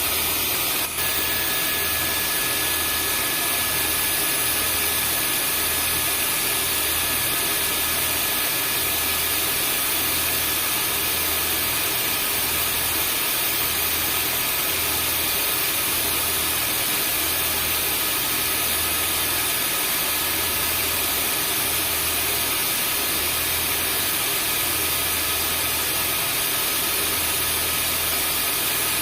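Vacuum cleaner running steadily: an even rushing hiss with a few constant whining tones and a low hum that pulses about once a second. There is a brief dip about a second in.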